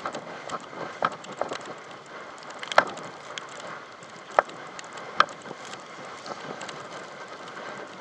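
Steady rushing hiss of water and wind with irregular sharp slaps and knocks, several of them loud, as a towed float skims and bounces over the sea.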